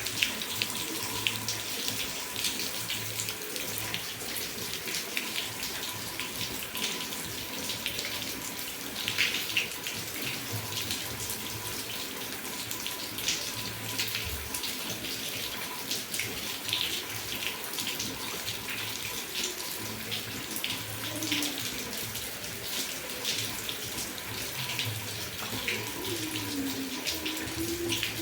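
Heavy rain falling steadily, a dense patter of splashing drops and running water.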